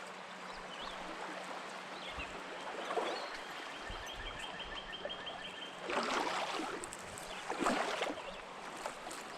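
Creek water flowing steadily, with two louder splashes in the water about six and eight seconds in. A short rapid high trill sounds briefly about four seconds in.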